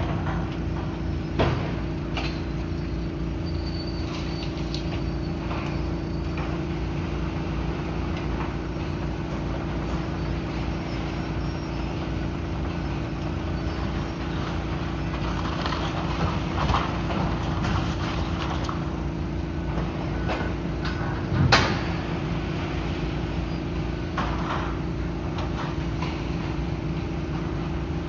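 Heavy demolition machinery running steadily, with scattered crashes and clanks of debris; the loudest comes about two-thirds of the way through.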